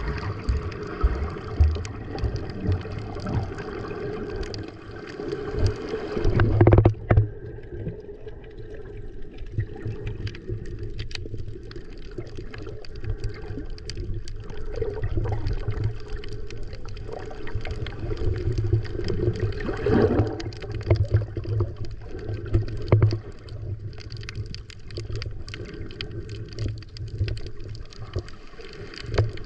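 Water sloshing and gurgling, with irregular low bumps and a louder splash about seven seconds in.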